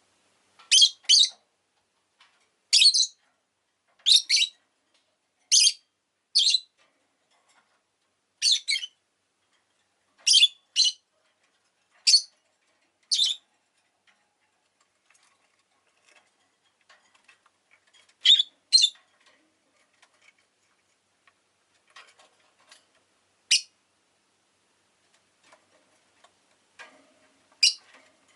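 Rosy-faced lovebird giving short, shrill high-pitched calls, often in pairs, every second or two, with a pause of several seconds about halfway through before a few more calls near the end.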